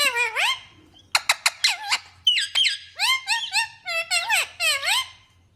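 Rose-ringed (Indian ringneck) parakeets calling: a quick run of short, shrill chirps and squawks, many sliding down and back up in pitch, with bursts of rapid clipped chirps.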